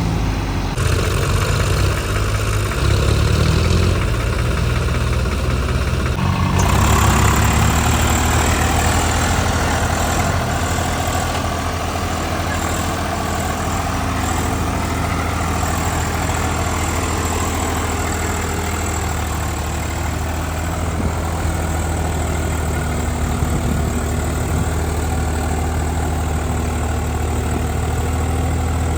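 Tractor diesel engine running steadily, its low drone changing abruptly about a second in and again around six and a half seconds in.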